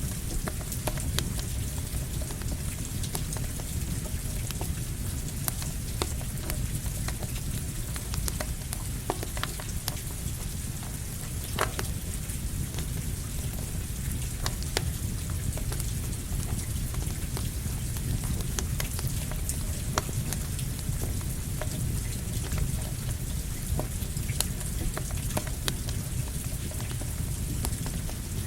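Steady rain mixed with a crackling campfire: a continuous hiss over a low rumble, with sharp crackles and pops scattered throughout.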